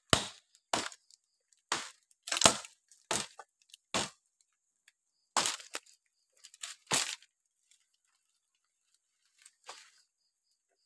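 Irregular series of about a dozen sharp cracks and knocks spread over the first ten seconds, each dying away quickly, with silence between them.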